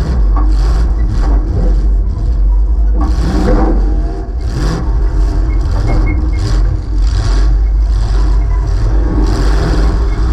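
Demolition derby car's 355 V8 running loud through open headers that exit straight up through the hood, the throttle surging up and down as the car drives.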